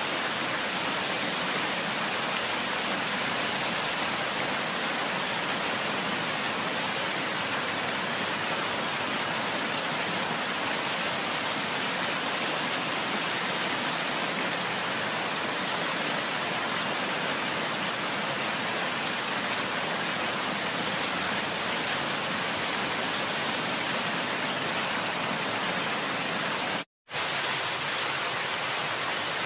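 Steady, even rush of water, like a waterfall or heavy downpour, that drops out completely for a split second near the end.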